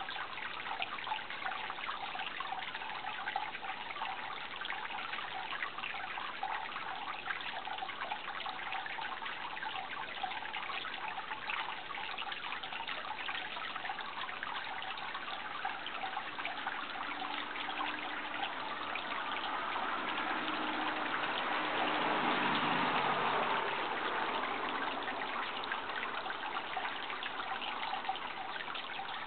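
Water trickling and babbling steadily, as from a small stream. A low hum swells in from about halfway through, peaks, then fades away a few seconds later.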